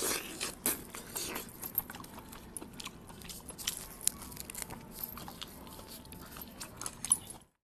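A man biting and chewing a chicken leg piece in curry, then a mouthful of leafy greens, with many small wet clicks and crunches. The sound cuts off abruptly near the end.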